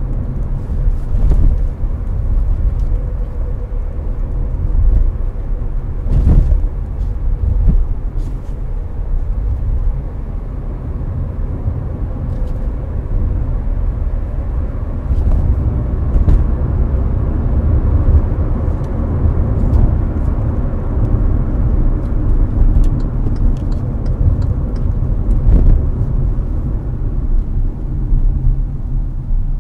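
Hyundai Avante (Elantra) cruising on a highway, heard from inside the cabin: a steady, deep road and tyre rumble mixed with air-conditioning fan noise. A few brief thumps stand out, the loudest about six seconds in and another near the end.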